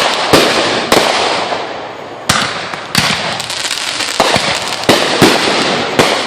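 Fireworks going off in quick succession: about eight sharp bangs, roughly one every half second to second, with continuous crackling between them.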